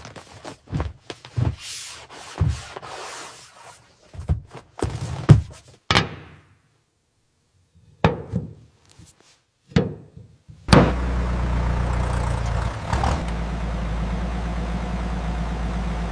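A string of sharp knocks and thuds, like car doors and panels being shut. About ten seconds in, a car engine starts and runs steadily at idle.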